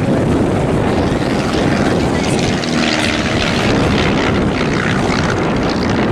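Stampe SV-4 biplane's piston engine and propeller droning steadily as it flies its display.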